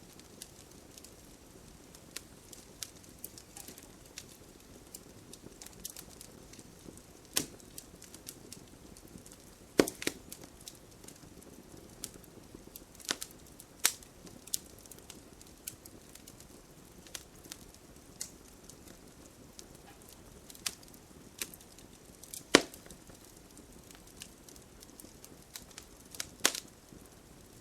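Wood fire burning, with irregular sharp crackles and pops over a soft steady rustle of flame. The loudest snaps come about ten seconds in, two-thirds of the way through and near the end.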